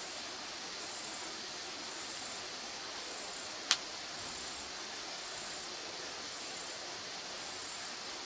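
Firewood burning with a steady hiss and a single sharp pop from the burning wood about three and a half seconds in. A faint high-pitched pulse repeats about once a second.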